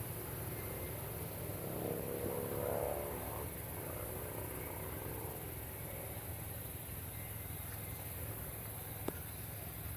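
A vehicle engine passing at a distance, over a steady low rumble. Its engine note swells and fades, loudest about three seconds in. A single sharp click comes near the end.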